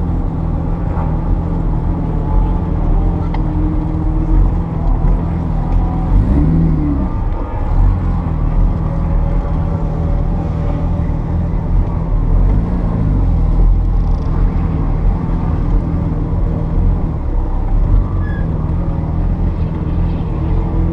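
1979 Porsche 930 Turbo's turbocharged, air-cooled 3.3-litre flat-six running hard on track. Its pitch climbs and drops several times as the car accelerates, shifts and slows.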